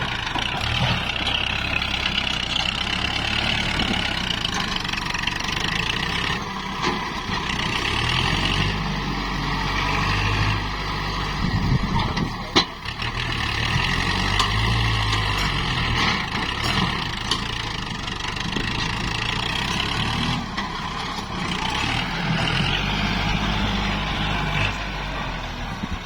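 Kubota MU4902 tractor's diesel engine running steadily as it works the field, its low drone swelling and easing with the load. A single sharp knock stands out about halfway through.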